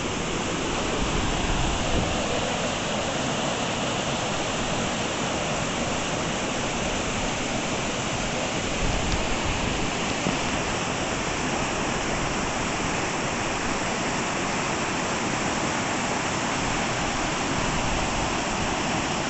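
Small waterfall rushing steadily, a dense even hiss of falling water, running full after a season of heavy rain.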